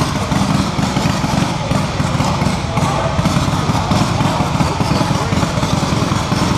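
1924 Indian Scout's V-twin motorcycle engine running steadily as it circles the wall, with a rapid even firing pulse.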